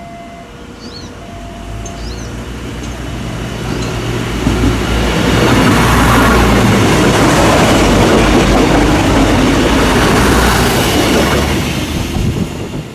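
Diesel-hauled train passing close by: a loud rolling rumble with a steady low hum under it builds over the first few seconds, stays loud through the middle, and eases off near the end.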